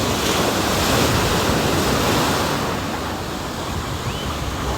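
Ocean surf breaking and washing up the beach, swelling over the first couple of seconds and then easing off, with wind rumbling on the microphone.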